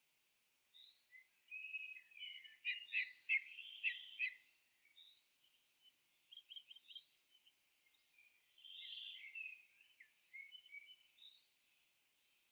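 Birds chirping and calling in short high-pitched notes, with a quick flurry of calls a couple of seconds in and scattered chirps after.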